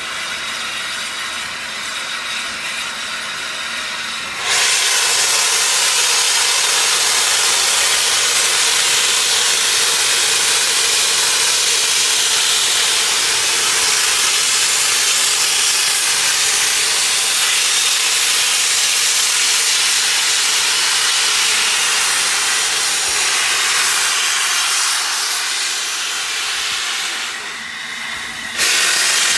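Steam locomotive 71000 Duke of Gloucester blowing off steam as it departs, a loud steady hiss that starts suddenly about four seconds in, eases near the end and returns in a brief burst.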